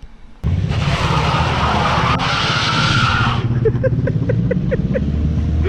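Car accelerating hard on a rain-wet road. The engine comes in suddenly and loudly, with a three-second rush of tyre spin and spray that cuts off sharply. A quick run of short chirps follows, and the engine keeps running loud.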